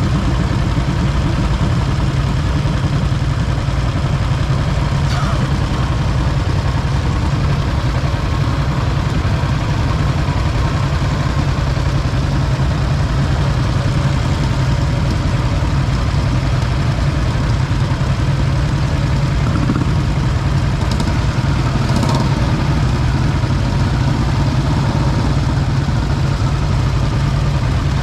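A motorcycle engine running steadily, with a strong low drone and no change in speed.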